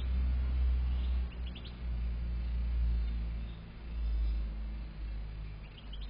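A few faint, short chirps of European goldfinches, heard about a second and a half in and again near the end, over a steady low rumble that is the loudest thing throughout.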